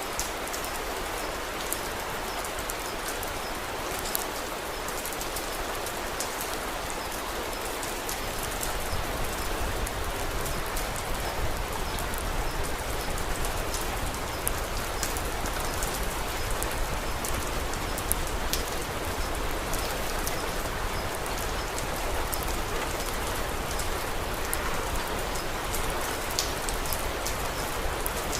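Steady rain falling, with scattered sharp crackling pops from a wood fire over it; the rain grows a little louder about eight seconds in.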